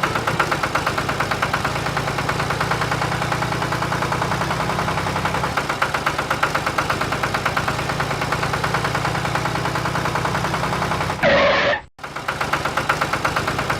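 Tractor engine running steadily with a rapid, even chugging beat. About eleven seconds in there is a brief sweeping sound, then a sudden cut-out of a fraction of a second before the chugging picks up again.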